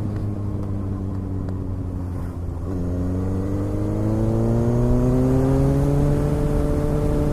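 Motorcycle engine pulling while riding. It holds a steady note, dips briefly about two and a half seconds in, then climbs steadily in pitch as it accelerates, levelling off near the end.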